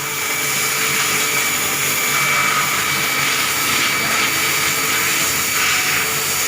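Motorcycle wash equipment running steadily during a chain wash: a continuous loud hissing whine with no breaks.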